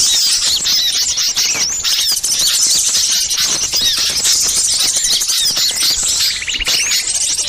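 Many small songbirds calling at once in a dense, overlapping chatter of high chirps and sweeping notes. These are agitated alarm calls of the kind used as a lure to draw in wild birds. A rapid buzzing trill comes in about six and a half seconds in.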